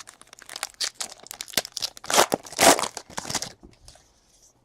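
A 2017 Panini Chronicles Baseball card pack wrapper being torn open and crinkled: a quick run of ripping and crackling, loudest about two seconds in.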